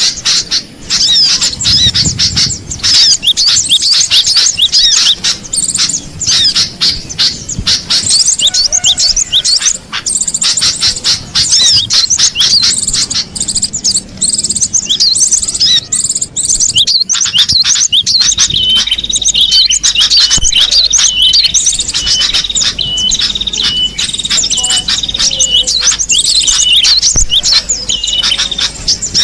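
Cinereous tit (gelatik batu) calling and singing: a dense stream of rapid high chirps, and in the second half a short note repeated over and over at an even pace.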